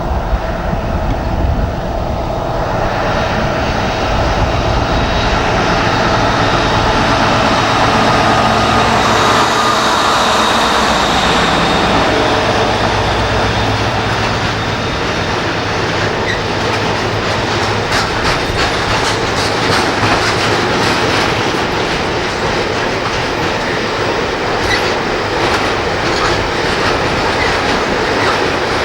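A BR Class 60 diesel locomotive passing with its train. The low, steady drone of its Mirrlees diesel engine leads in the first part. About halfway through it gives way to a fast, continuing clatter of wagon wheels over rail joints.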